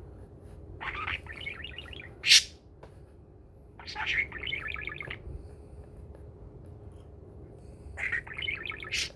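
Pet budgerigar chattering in three bursts of rapid chirps, with one sharp, loud high-pitched call about two seconds in.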